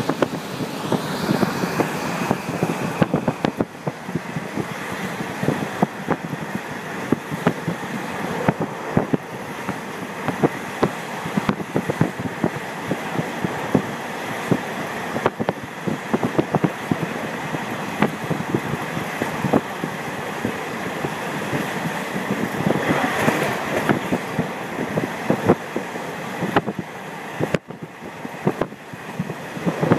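KiHa 48 diesel railcar under way, heard from a window seat: a steady rush of wind and running noise with frequent sharp knocks and rattles from the wheels and car body. The rush swells briefly about two-thirds through.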